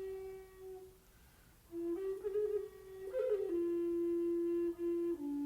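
Slow solo flute melody. A held note dies away in the first second, then after a short pause the flute plays a few long notes, with a quick ornament in the middle, stepping down in pitch.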